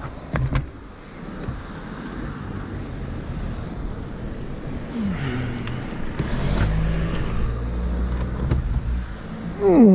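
A car engine running nearby, its low rumble building through the second half. There are a few sharp knocks about half a second in and a short falling tone just before the end, which is the loudest moment.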